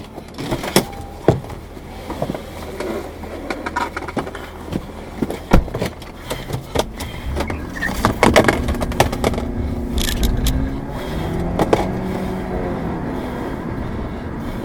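A car driving, with many sharp knocks and rattles through the first half, then a steadier engine note from about eight seconds in.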